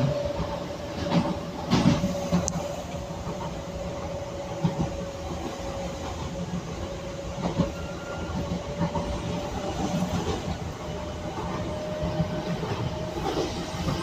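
Docklands Light Railway electric train running along the track: a steady whine over a rumble of wheel noise, with scattered clicks and knocks as the wheels pass over the rails.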